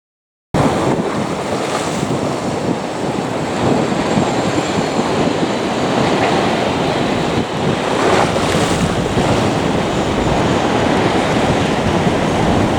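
Loud steady rushing noise of a Boeing 737-800's jet engines at close range, mixed with wind buffeting the microphone, with a faint high whine on top. It cuts in abruptly about half a second in.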